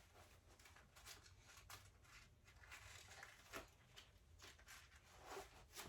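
Faint rustling of fabric and straps, with a few soft clicks, as a baby carrier is handled and adjusted; two brief louder rustles come in the second half.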